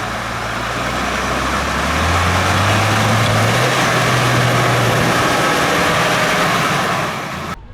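Heavy off-road racing truck's engine revving up about two seconds in and holding high under load, with a loud rushing hiss over it; the sound cuts off suddenly near the end.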